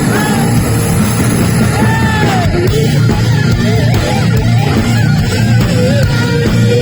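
Live heavy metal band playing loudly, a lead electric guitar line with notes bending up and down over the bass and drums.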